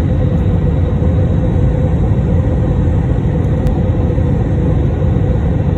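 Airbus A321 cabin noise: a steady, loud low rumble of engines and airflow heard from inside the cabin, with a steady hum over it.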